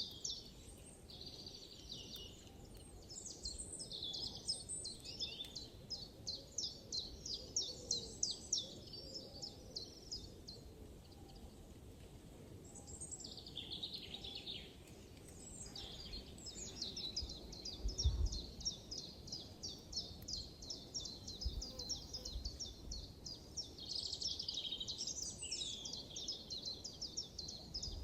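Small songbirds singing in a forest, with fast trills of high, quickly repeated chirps. A soft low thump comes about two-thirds of the way through.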